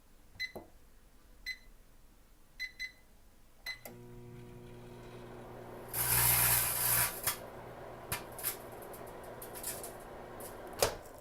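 Microwave oven keypad beeping several times as it is set, then the oven starts running with a steady hum. A crisp-packet bag inside crackles loudly for about a second, then crackles on and off as it shrinks in the heat, and a sharp click comes near the end as the oven stops.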